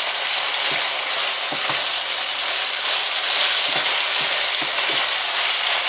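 Ground beef, sausage, diced tomatoes and vegetables sizzling steadily in a skillet while a wooden spoon stirs and scrapes through the mixture, with a few soft spoon strokes heard through the frying.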